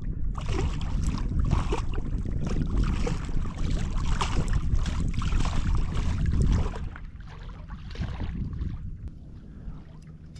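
Water splashing and sloshing around a fishing kayak, with wind rumbling on the microphone; loud for about six and a half seconds, then easing off.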